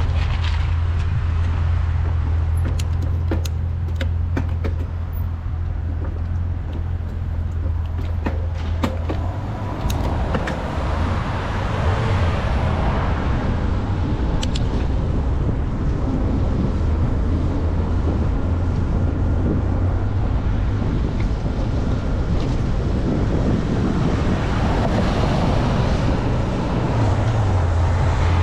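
Road traffic heard from a bicycle on the move, under a steady low wind rumble on the microphone. Passing vehicles swell up twice, and there are a few sharp clicks in the first third.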